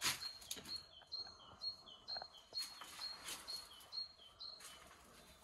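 A songbird outside repeating a two-note phrase, a higher note then a lower one, about twice a second, with a few light knocks and scuffs.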